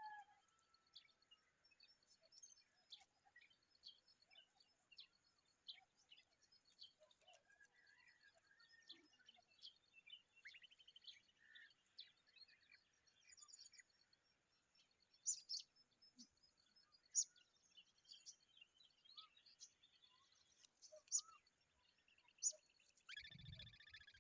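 Common babblers chirping and calling: scattered short, high chirps, with a few louder sharp notes from about halfway in and a louder, harsher call near the end.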